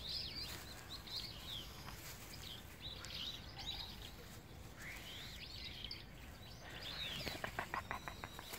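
Small birds chirping and twittering on and off over a steady outdoor background. Near the end there is a quick run of about eight taps in roughly a second.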